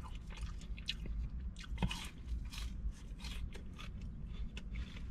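A person chewing crunchy fried food close to the microphone, with many irregular crisp crunches.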